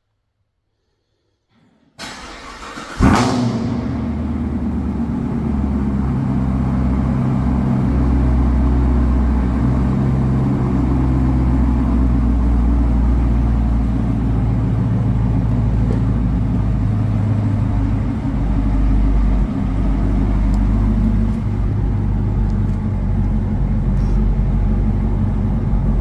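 Whipple-supercharged Chevrolet Camaro V8 starting by remote start: it catches about two seconds in, flares in revs a second later, then settles into a steady, loud idle with a deep rumble.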